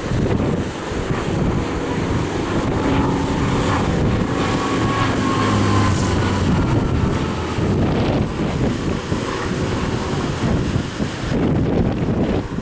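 Hawker Fury's Bristol Centaurus radial engine droning as the aircraft passes, its pitch falling a few seconds in, under heavy wind buffeting on the microphone.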